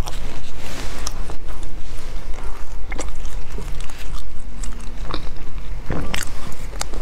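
Close-miked chewing of a crusty filled bread bun, with soft crackles and small mouth clicks. There is a fresh bite near the end.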